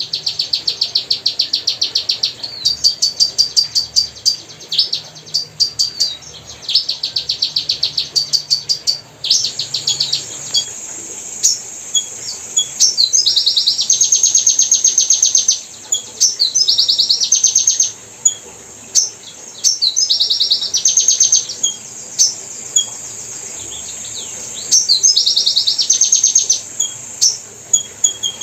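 A small bird's high-pitched chatter: rapid trilled chirps in bursts of about one to two seconds, repeated over and over with short gaps. About nine seconds in, a faint steady hiss sets in under the calls.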